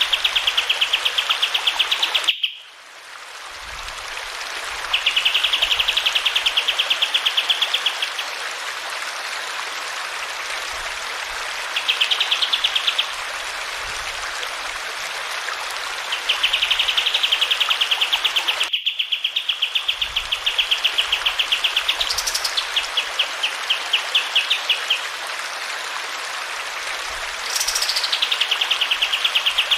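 Kapas tembak bulbul singing its rolling song: bouts of very fast, evenly pulsed notes at one steady pitch, some ending in a quick rising sweep, over the steady rush of flowing water. The whole track cuts out briefly twice, about two seconds in and a little past halfway.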